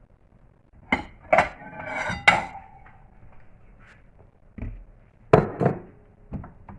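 Metal cookware being handled: a series of clanks and knocks of pots and utensils, one strike ringing briefly about two seconds in.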